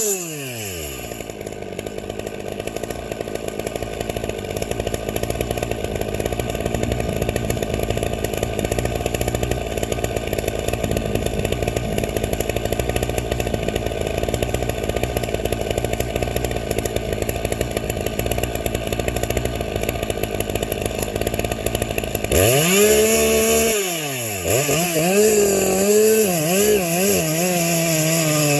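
Gas chainsaw making a long cut through wood: its pitch drops as the chain takes the load and the engine runs steadily in the cut. About 22 seconds in it breaks free and revs up high, then wavers up and down at high revs.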